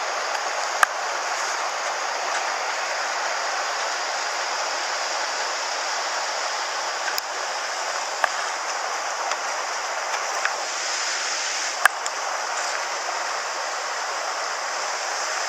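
Steady rush of a mountain stream's flowing water, with a few brief sharp clicks, the sharpest near the end.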